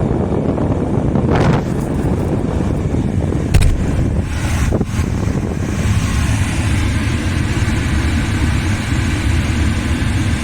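Truck cab's heating and air-conditioning blower fan on its highest of four speeds, a steady rush of air from the dash vents over the low hum of the idling engine. A sharp click about three and a half seconds in.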